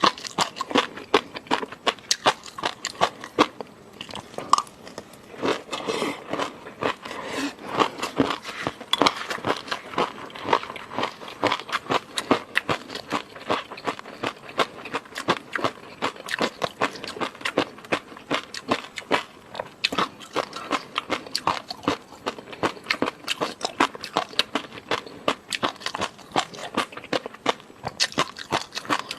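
Close-miked eating sounds: a person chewing and biting food, with a dense run of quick clicks and smacks, several a second, without a break.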